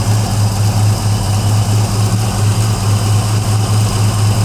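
A 1959 truck's 327 small-block V8 idling steadily with an even low hum, running pretty smooth.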